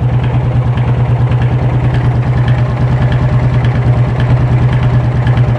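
Yamaha Fazer 250's single-cylinder four-stroke engine idling steadily, with a rapid, even pulse of firing strokes. The mechanic points to the firing as oscillating, on a bike brought in for a strange engine noise, running loose and throwing fault codes.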